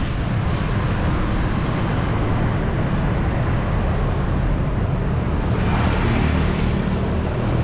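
Busy city road traffic heard from a bicycle: a steady low rumble of passing motor vehicles, with one passing louder at about six seconds in.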